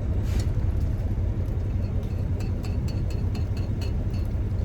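Steady low rumble of an idling truck engine, with faint light ticks and scrapes of a knife working around a metal egg ring in the pan.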